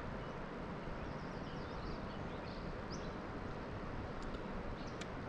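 Outdoor background ambience: a steady hiss with a few faint, high bird chirps in the first half and a couple of faint clicks near the end.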